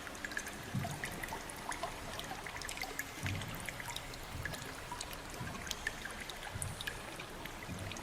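Water in a limestone river cave: many scattered drips over a steady trickling hiss, with soft low sloshes of water about every second or so.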